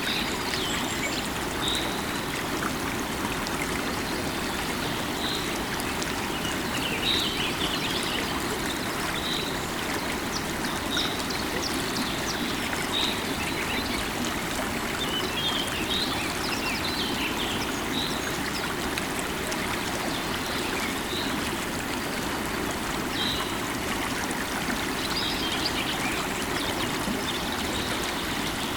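Running river water flowing steadily, with birds chirping in short calls scattered over it.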